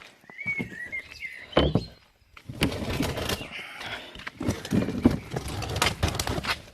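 A wheelie bin being wheeled out over hard ground: a clatter of rolling plastic wheels and knocks. Birds chirp briefly in the first second.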